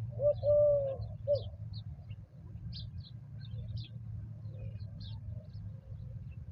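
A dove cooing once near the start: a short note, a long held note, then a short note. Small birds chirp high and sparsely throughout, over a steady low rumble.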